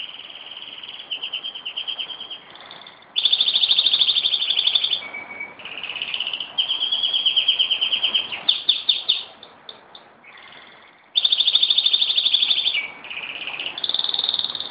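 Pet canary singing a long, continuous song of fast high trills, rapid rattling runs and held whistled notes, phrase after phrase with hardly a pause.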